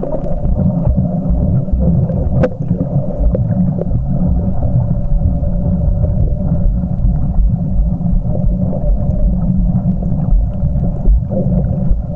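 Muffled, continuous low rumble of water moving around a camcorder's underwater housing during snorkeling, with a faint steady hum and scattered small clicks.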